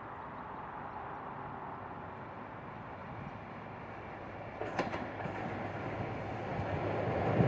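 Approaching train: a steady rumble that grows louder, with a low engine hum coming in and a brief sharp clatter about four and a half seconds in.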